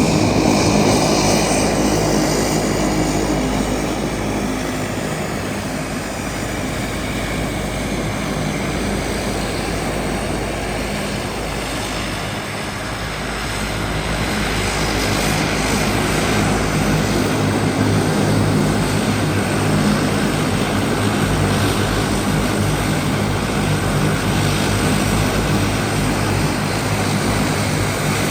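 Dash 8 turboprop engines and propellers running steadily, with a hum of propeller tones over a broad rush. The sound eases for a while and then grows louder again about halfway through.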